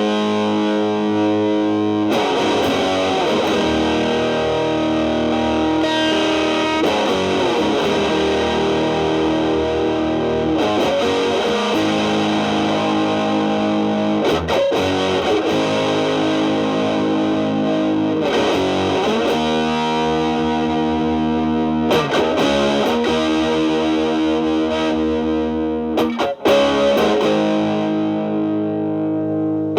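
Telecaster with single-coil pickups played through a stacked MXR Distortion+ at maximum distortion and a Boss SD-1 Super Overdrive at drive 9, into a Marshall Valvestate amp's clean channel: heavily distorted electric guitar with long-sustaining held notes and chords that change every second or two. There is a brief drop in level about 26 seconds in.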